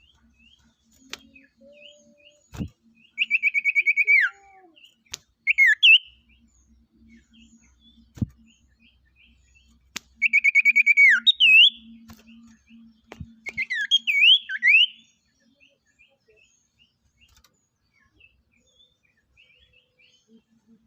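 Sirtu songbird singing in two bouts, each a fast buzzy trill that ends in a falling note, followed by looping whistled notes; soft chirps fill the gaps, with a few faint knocks.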